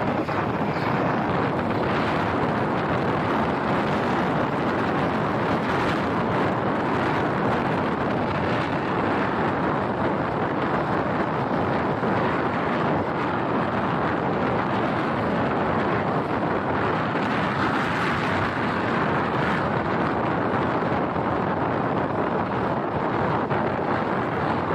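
Steady wind rush on the microphone of a moving motorbike, with road and engine noise underneath.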